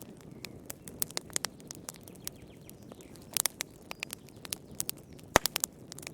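Wood fire crackling in a fireplace: irregular sharp pops and snaps over a low steady hiss of the flames. There is a quick cluster of pops about halfway through, and the loudest single snap comes near the end.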